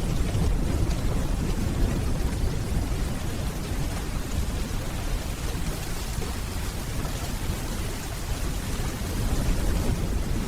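Steady rainfall with a low rumble of distant thunder underneath.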